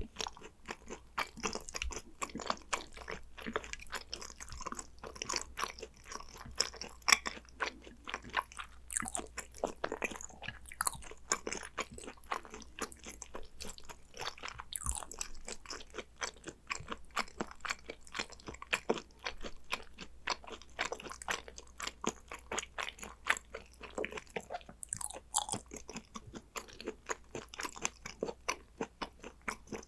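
Close-miked chewing of hanwoo yukhoe, raw beef tartare, with a steady run of sharp, crisp mouth clicks and crunches.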